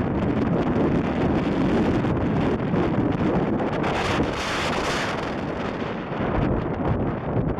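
Strong storm wind buffeting the microphone in uneven gusts, with a stronger, hissier gust about four to five seconds in.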